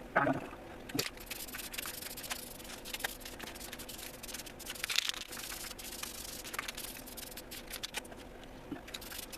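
Paint spray hissing as VHT engine enamel is laid on an engine block, with many short clicks and handling noises mixed in.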